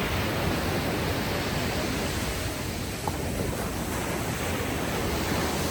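Ocean surf washing onto a beach: a continuous, steady rush of breaking waves with a light swell in loudness, mixed with sea breeze.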